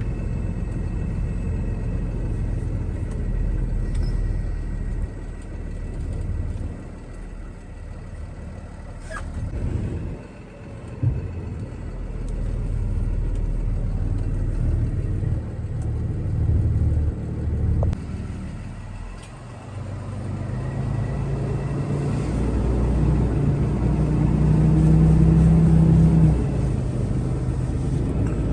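Box truck engine and road rumble while driving, with the engine note climbing as it accelerates over the last few seconds.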